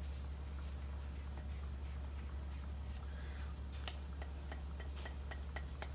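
Hand pump of a crankcase pressure tester worked in quick, even strokes, about three a second, with a steady low hum underneath. The chainsaw crankcase is hard to bring up to half a bar, a sign of air leaks.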